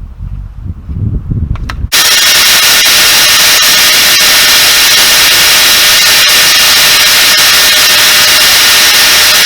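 Low rumble, then about two seconds in a loud, steady high-pitched whine and hiss cuts in abruptly and holds: a homemade belt sander driven by a 180 mm Metabo angle grinder, running at full speed.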